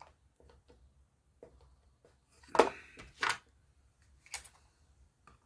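Woodworking clamps being handled and tightened on a glued-up piece: scattered small clicks, two louder knocks a little past halfway, and a sharp click about a second later.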